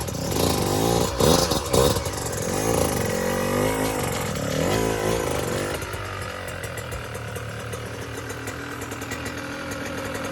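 Dirt bike engine revving up and down in repeated short blips as the clutch is feathered to walk the bike up a ramp into a truck bed, then settling to a steady idle about six seconds in.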